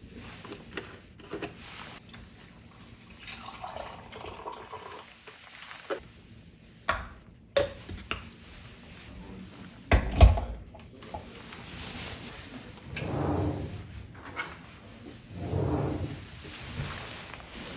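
Kitchen work: swells of running or pouring liquid, with scattered clinks and knocks of dishes and utensils and a louder knock about ten seconds in.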